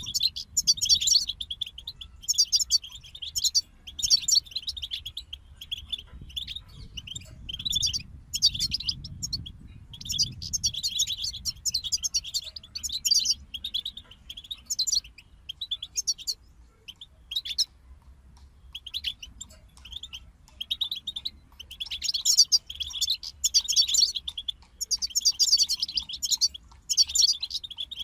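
European goldfinch song: phrases of rapid, twittering notes with short pauses between them and a brief lull about two-thirds of the way through.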